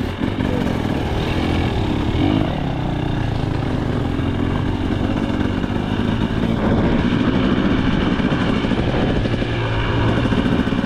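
2025 KTM 300 XC two-stroke dirt bike engine running while being ridden. Its pitch holds fairly steady, with small rises and dips.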